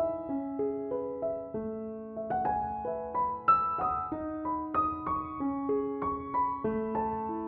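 Background piano music, a slow, gentle melody of single notes over held lower notes.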